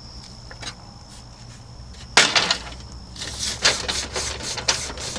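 Scrubbing on a refrigerator being cleaned: a sudden hard stroke about two seconds in, then irregular rubbing strokes about three a second.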